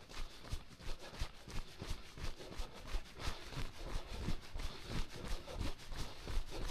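A runner's footsteps on a dirt trail, an even stride of about three steps a second, each landing a dull thud, over a steady hiss.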